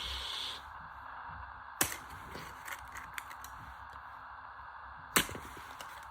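Ashley tumble dryer driven by a washing-machine motor, running steadily while being shaken apart, with two sharp bangs, about two seconds in and about five seconds in, and a few lighter clicks.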